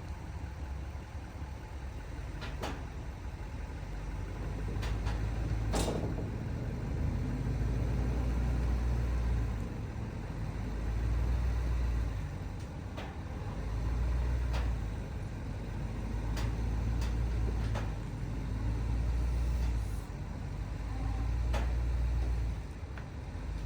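A vehicle engine running with a deep rumble that swells and eases every few seconds, with a few sharp knocks and clanks.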